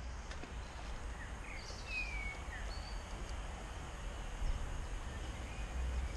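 A few short bird chirps, sliding down in pitch, about two seconds in, over a low steady background rumble.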